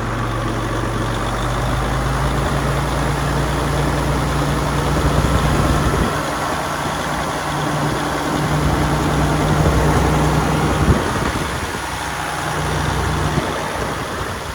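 Detroit DD15 14.8-litre inline-six diesel engine idling steadily on a test run, with a slight change in its note midway and one sharp tick about three-quarters through.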